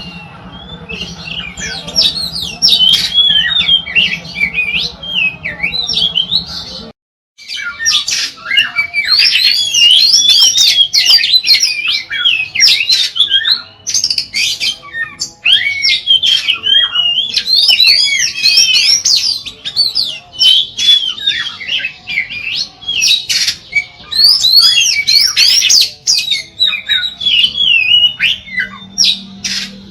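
Oriental magpie-robin (kacer) singing continuously: a long, rapid, varied song of sliding whistles and chattering notes. The sound cuts out completely for a moment about seven seconds in, then the song resumes.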